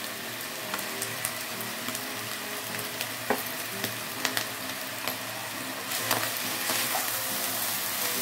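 Noodles sizzling as they stir-fry in a nonstick wok, with a few sharp clicks of the silicone spatula against the pan. The sizzle grows louder about six seconds in as the noodles are tossed.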